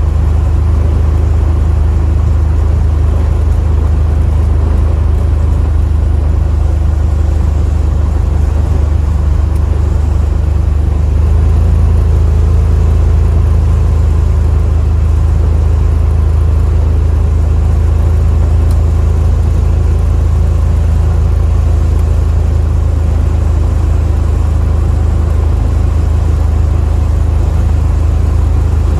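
1968 Chevy Impala driving at a steady speed: a constant low engine and road drone, rising slightly about eleven seconds in.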